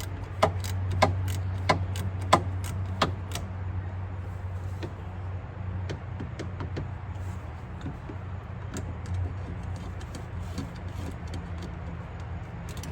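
Sharp clicks from a hand tool being worked by hand on a car fastener, evenly spaced at about one and a half a second for the first three seconds, then fainter and more scattered. A steady low hum runs underneath.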